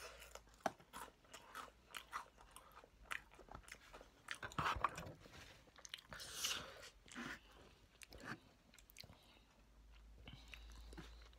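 Mouth noises of crunching and chewing crispy honey-glazed fried chicken, a run of short irregular crunches. About six seconds in there is a brief louder rustle.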